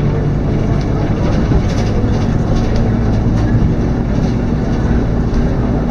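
Scania K230UB city bus's diesel engine running steadily under way, heard from inside the passenger cabin, with a few faint light clicks.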